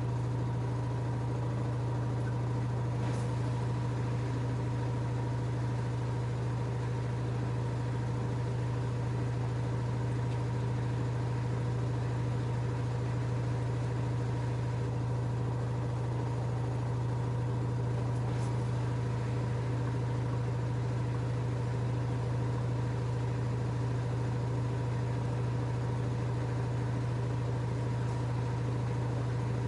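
LG F10A8HDS5 front-loading washing machine running with a steady low hum and a fainter higher whine, unchanging throughout, with two faint ticks.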